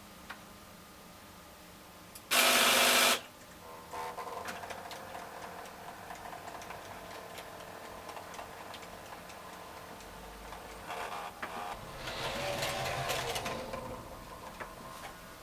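Small electric motors of H0-scale model trains running, a steady whirring drone. About two seconds in, a very loud noisy burst lasts under a second, and near the end the drone grows louder and wavers.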